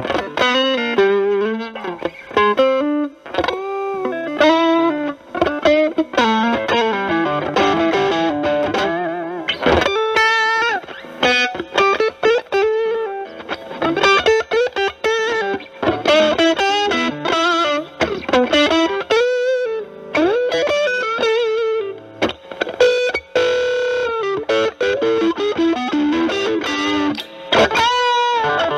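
Electric guitar (Stratocaster with single-coil pickups) played through a Pro Co RAT2 distortion stacked with an Ibanez TS9 Tube Screamer, TS9 gain at about 10 o'clock, into a Marshall Valvestate amp. It plays distorted single-note lead phrases with string bends and vibrato, with short breaks between phrases.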